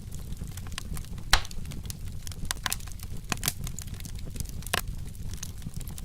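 Wood fire crackling with frequent sharp pops, the loudest about a second and a half in, over a low steady rumble.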